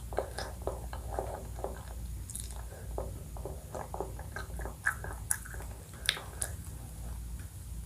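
Close-miked chewing of ice cream and cream cake, with wet mouth sounds and a few sharper clicks about five and six seconds in.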